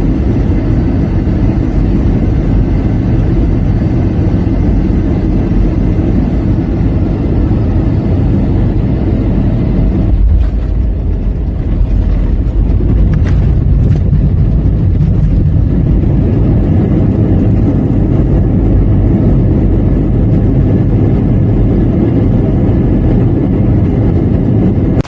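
Loud, steady rumble of a jet airliner's cabin during landing in heavy rain: engine and airflow noise, with a few knocks between about ten and fourteen seconds in.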